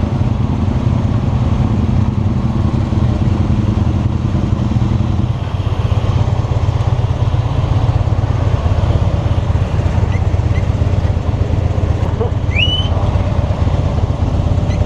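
Harley-Davidson motorcycle's V-twin engine running with a low, steady exhaust note; the note changes about five seconds in.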